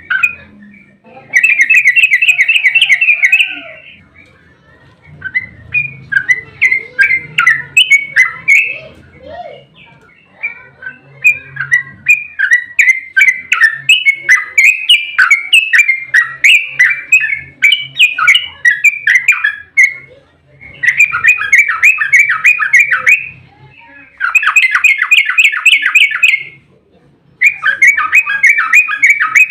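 Yellow-vented bulbul (trucukan) singing loudly in fast rolling bursts of about two seconds each, with looser chattering phrases between them. This is the rapid 'ropel' song used as a lure to set other trucuk birds singing.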